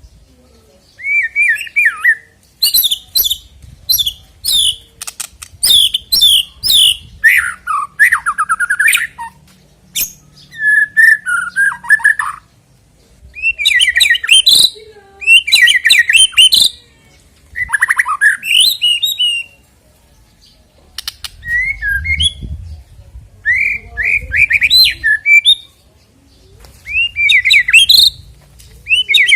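White-rumped shama (murai batu) singing loud, varied phrases of whistles, trills and harsher notes, separated by short pauses.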